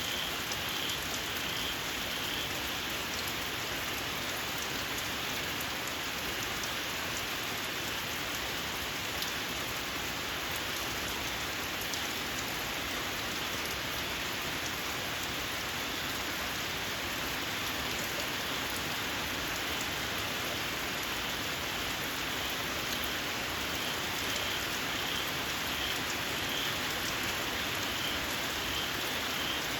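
Steady rain falling. A small frog gives a run of short, shrill, evenly repeated calls at the start and again near the end.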